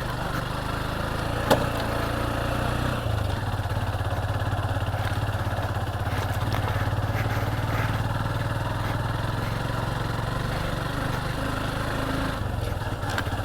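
Motorcycle engine running steadily as the bike is ridden, with a sharp knock about a second and a half in and a slight change in the engine note about three seconds in.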